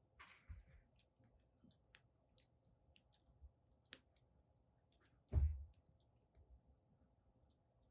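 Wood fire crackling in a fire pit: scattered small pops and snaps, faint and irregular. A louder low thump with a short rush comes about five seconds in.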